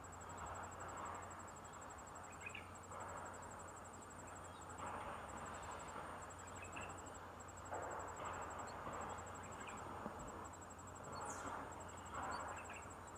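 A high-pitched, rapidly pulsing insect trill, cricket-like, running on with brief breaks, over intermittent soft rustling noise.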